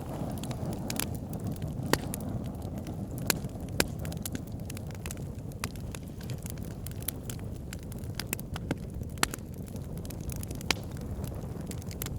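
Wood fire burning in a fireplace: irregular sharp crackles and pops over a steady low rumble, the loudest pop about two seconds in.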